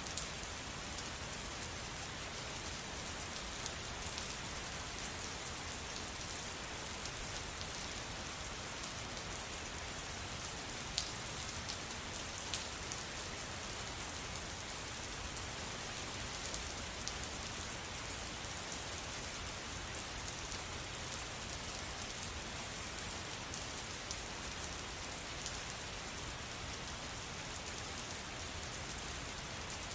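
Steady rain falling, an even hiss with individual drops ticking sharply now and then, two of them standing out about eleven and twelve and a half seconds in.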